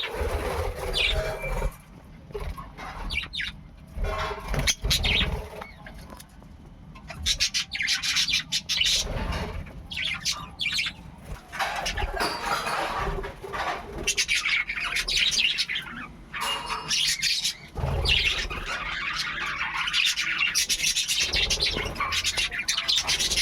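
Budgerigars chirping and chattering continuously, many calls overlapping, growing busier in the second half, with occasional low thuds.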